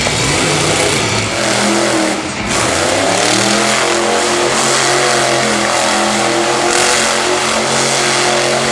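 Monster truck engine running hard and revving, its pitch holding for a few seconds and then shifting.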